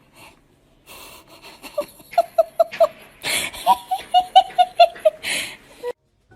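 High-pitched laughter in two quick runs of short "ha" bursts, about five a second, each run ended by a wheezy gasping breath.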